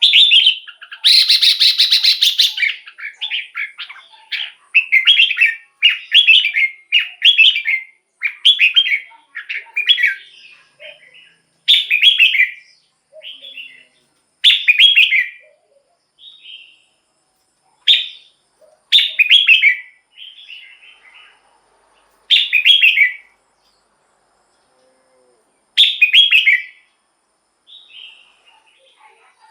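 Red-whiskered bulbul singing: short, loud warbling phrases repeated every second or two, with brief pauses between them.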